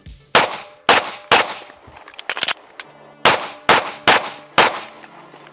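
Handgun fired in two quick strings: three shots about half a second apart, a pause of about two seconds with a few light clicks, then four more shots at a slightly faster pace.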